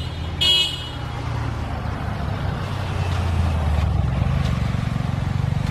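A vehicle horn sounds briefly about half a second in. Then a motor vehicle's engine runs with a steady low drone that slowly grows louder.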